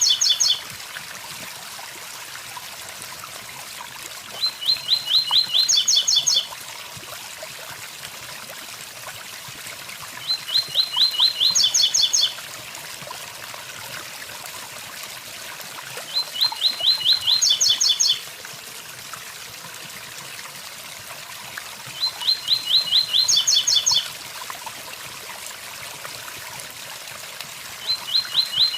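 Blue-black grassquit (tiziu) singing its 'tui tui zel zel' phrase: a quick run of high, rapid notes stepping up into a few even higher ones, about two seconds long. The same phrase comes back about every six seconds, over the steady rush of a waterfall.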